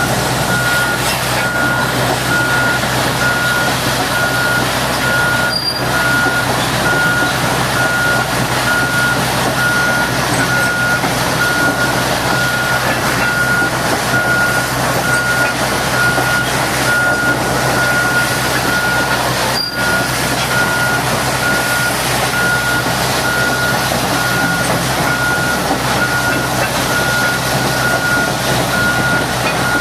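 Heavy machinery running, with a reversing alarm beeping steadily over a loud, even rush of noise.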